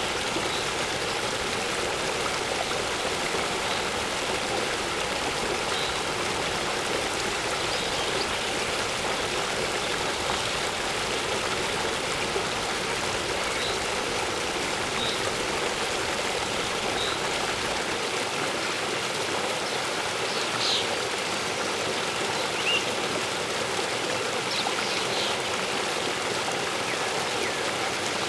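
Waterfall water rushing in a steady, even stream, with a few faint high bird chirps over it, mostly in the second half.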